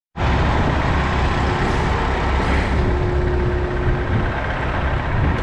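Heavy diesel truck engine running with a strong low rumble and a brief steady tone in the middle.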